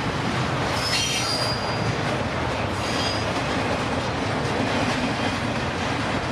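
Freight train cars rolling past with a steady rumble and clatter. Brief high-pitched wheel squeals come about a second in and again around three seconds.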